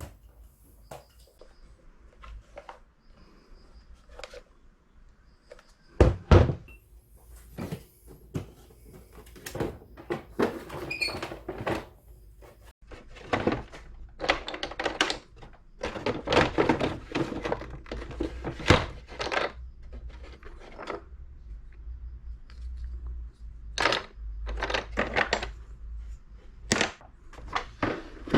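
A string of irregular knocks, thunks and clatter of hard objects being handled and set down in a small room, busiest from about 14 to 19 seconds in.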